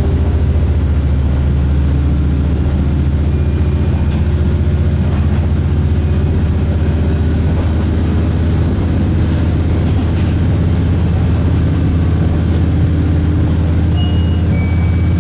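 Diesel railcar running, with a steady low engine drone.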